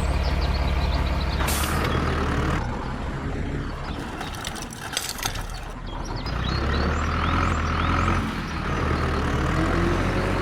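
A motor running with a steady low hum that drops away and comes back, with a short burst of rattling clicks near the middle.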